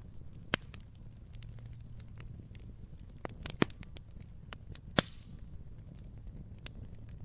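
Fire crackling: scattered small ticks and sharp pops, the loudest about half a second in, twice around three and a half seconds, and once about five seconds in, over a low steady rumble.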